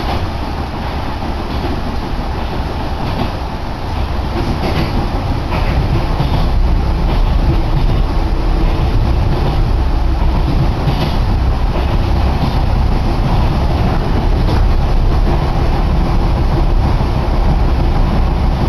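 Yoro Line electric train heard from inside the carriage while running: a steady low rumble of wheels and running gear that grows louder about five seconds in, with occasional clicks of the wheels over rail joints.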